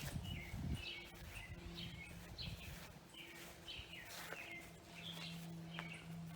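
Birds chirping outdoors: a string of short, falling chirps repeated every half second or so, over a faint steady low hum, with a brief low rumble in the first second.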